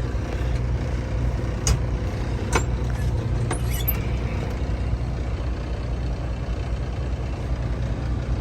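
Semi truck's diesel engine running steadily at low revs, a deep even drone heard from inside the cab, with a few short sharp clicks in the first few seconds.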